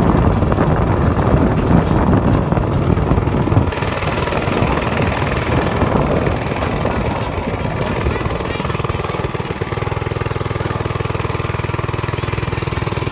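Mini bike's small single-cylinder engine running, ragged and noisy at first, then settling into a steady, even idle about two-thirds in.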